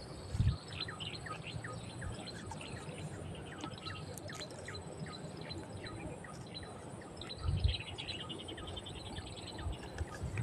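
Birds chirping and calling, many short calls with a quick trill about eight seconds in, over a steady high whine. Two low thumps, one just after the start and one about seven and a half seconds in.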